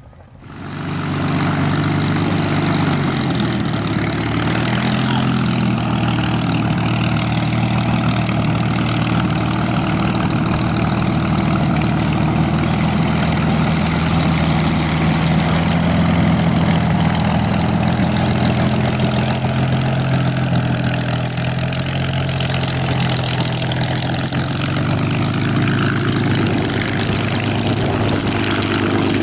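Warbird's piston aero engine running steadily at low power, its pitch dipping slightly a few seconds in and rising again near the end.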